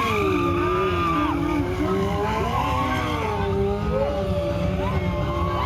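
Stunt motorcycle engines revving hard, their pitch swinging up and down again and again as the throttle is worked, over a low rumble.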